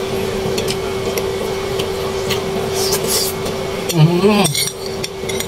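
A person chewing food, with faint utensil clicks, over a steady hum. A short hummed "mm" comes about four seconds in.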